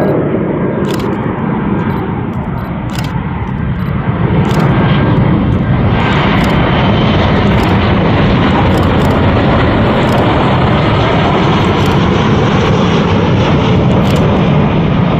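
Boeing 737-800 jet engines running loud and steady as the airliner passes, with a slow sweeping whoosh in the first few seconds.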